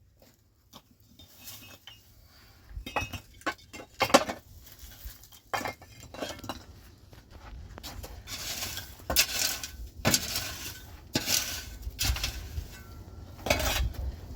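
Pots, dishes and cutlery being handled: irregular clinks and clatters of metal and crockery knocking together, sparse at first and busier in the second half.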